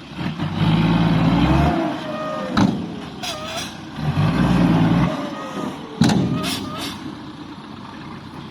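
Ten-wheel dump truck's diesel engine revving hard twice, with short sharp hisses and squeals of its air brakes in between and after.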